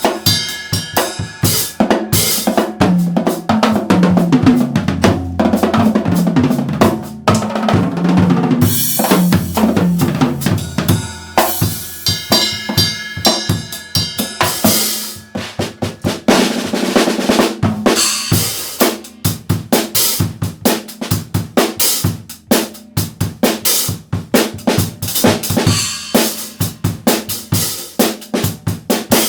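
Yamaha acoustic drum kit played solo: fast snare and bass drum patterns with rimshots, a run of tom fills a few seconds in, and Zildjian cymbal crashes.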